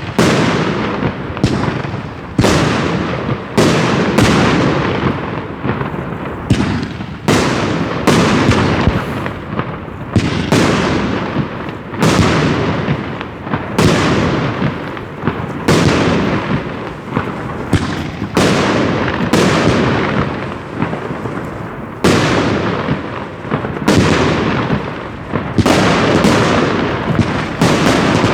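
Fireworks going off in quick succession: a steady string of loud bangs, about one a second, each trailing off in a fading rumble.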